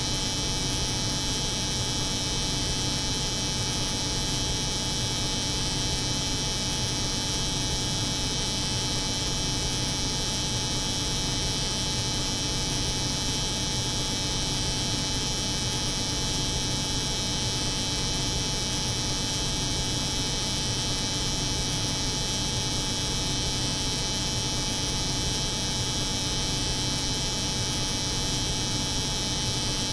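Electric hair clipper running, layered over the hum of a cold room's refrigeration, as one steady, unchanging drone.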